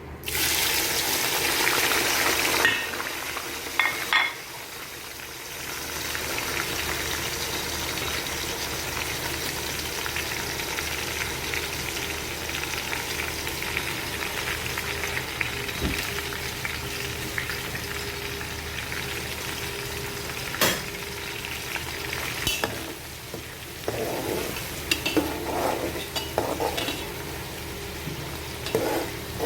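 Hot vegetable oil in a pot sizzling loudly as ingredients go in, dying down after about three seconds, then a steady frying hiss from onions, green pepper and garlic. A few sharp clicks and, near the end, stirring noises from a spoon in the pot.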